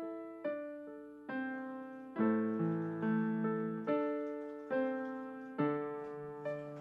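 Background piano music: slow, single notes and chords struck about once a second, each ringing and fading.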